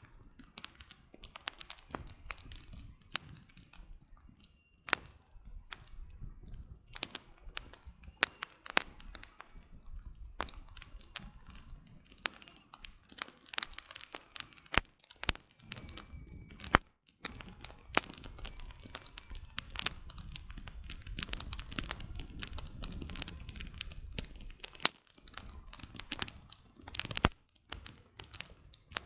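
Wood campfire burning, the firewood crackling with a steady stream of irregular sharp pops and snaps over a soft low rush of the flames.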